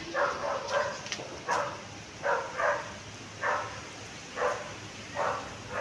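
A dog barking over and over, about nine barks at uneven intervals, some coming in quick pairs.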